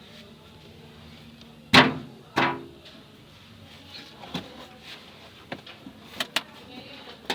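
Two loud metallic clanks about half a second apart, each ringing briefly, then a scatter of lighter clinks and taps: metal tools and parts being handled during work on the engine mount.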